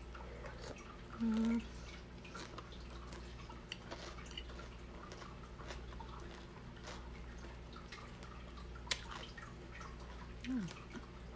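A person chewing a mouthful of mango, cucumber and tomato salad: many small, irregular wet mouth clicks. There is a brief low hum from the eater about a second in and a short falling 'mm' near the end, over a steady low hum.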